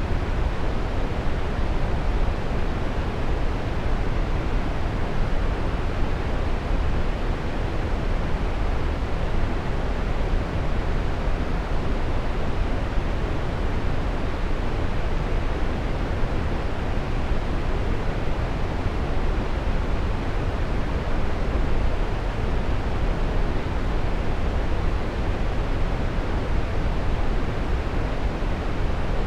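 Waterfall: a steady, unbroken rush of falling water, strongest in the low end.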